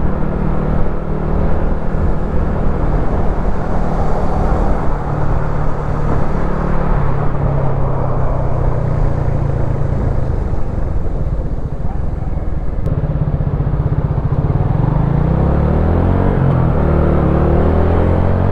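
Wolf Classic 125cc motorcycle engine running steadily under way with a low rumble, then rising in pitch as it speeds up over the last few seconds.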